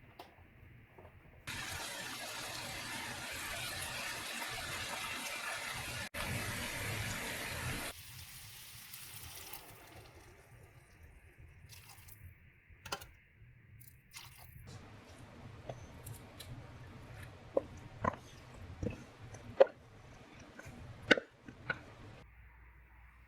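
Water running from a kitchen tap for about six seconds, then stopping. Sharp clinks and knocks follow, with the loudest cluster near the end.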